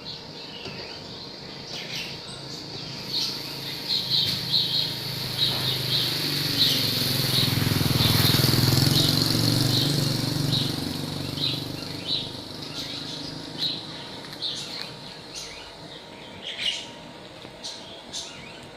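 Small birds chirping again and again, over a low engine rumble that builds up in the middle and fades away again.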